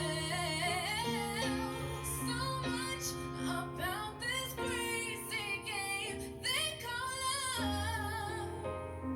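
Dream-pop song: a female voice sings wavering lines over held chords and a low bass that change every second or two.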